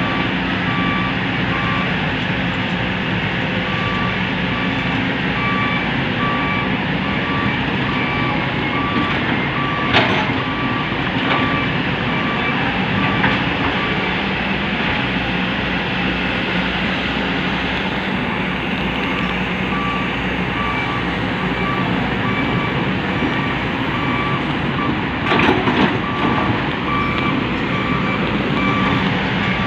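Diesel dump truck engine running steadily while a reversing beeper beeps over and over, pausing partway through. A sharp knock comes about ten seconds in, and a few more come near the end.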